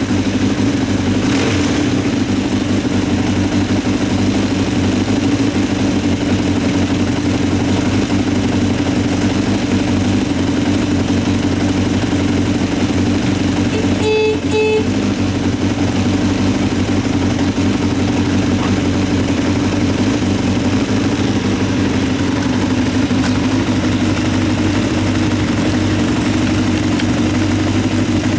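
Honda CBX550F2 Integra's air-cooled inline-four engine idling steadily, with a short break in the sound about halfway through. The engine is in good running order.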